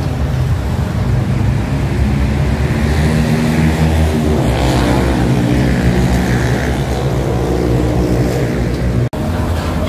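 A vehicle engine running steadily, a low hum that grows fuller through the middle. The sound drops out for an instant near the end.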